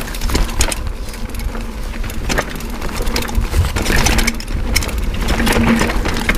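Mountain bike riding down a rough trail: tyres crunching over stones and dirt, with the chain and frame rattling and a dense run of clicks and knocks from the bumps.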